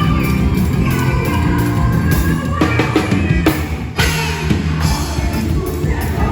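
Band music with a drum kit, with a short run of drum hits about three seconds in.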